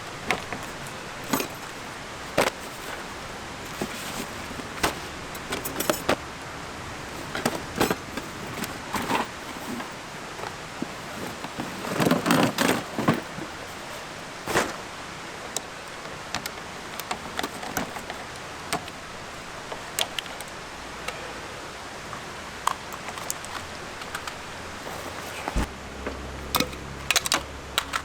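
Scattered metallic clinks and knocks, a few a second at times and denser about twelve seconds in, over a steady background hiss.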